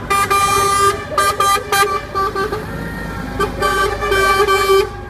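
Truck horns sounding repeatedly as lorries in a convoy pass: a series of short blasts of differing lengths, then a longer held one, over the low rumble of the trucks' engines.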